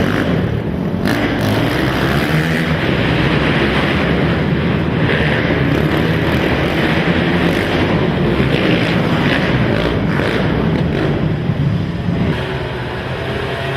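Several racing quad (ATV) engines running at high revs together, their pitches rising and falling as the riders work the throttles, a little quieter near the end.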